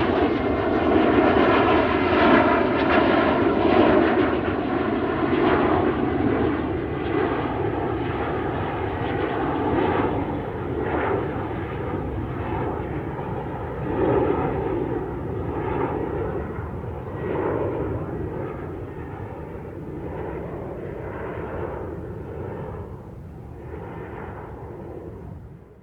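Airliner engines running loud at first, then fading steadily as the aeroplane moves away.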